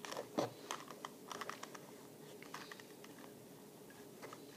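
A screwdriver turning a screw in the plastic core of a 2x2 Rubik's cube, loosening it. It gives faint, irregular small clicks and ticks, thicker in the first second and a half.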